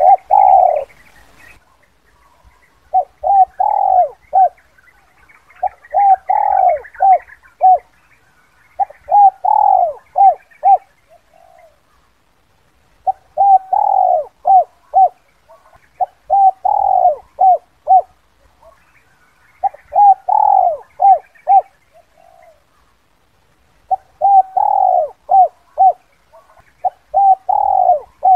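Spotted dove cooing its 'kuk 2' call, a lure call for wild doves. It repeats the same phrase of low notes every three to four seconds: a short note, a longer strong coo, then a few quick short notes.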